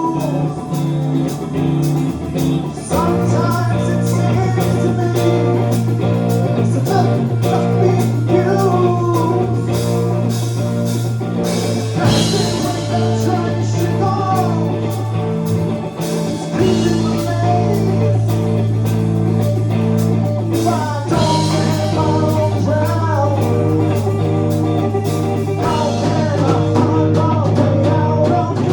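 A rock band playing live, with a sustained bass line and chords, electric guitar and a sung or bent-note melody over the top. The harmony shifts to a new chord three times.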